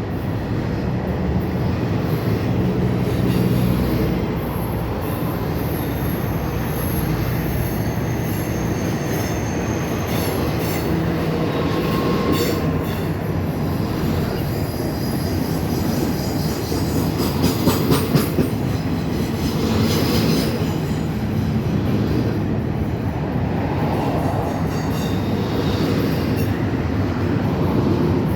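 Intermodal freight cars carrying containers and trailers rolling past at speed: steady wheel-on-rail rumble and clatter, with faint high-pitched wheel squeals at times and a few sharp clanks.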